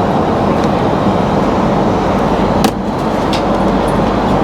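Steady cabin noise inside a Boeing 777 airliner in flight, a constant rush of air and engine sound. A single sharp click comes about two-thirds of the way through.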